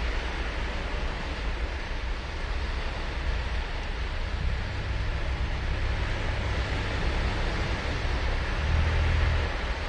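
Ocean surf breaking and washing ashore: a steady rushing with a deep low rumble, swelling briefly near the end.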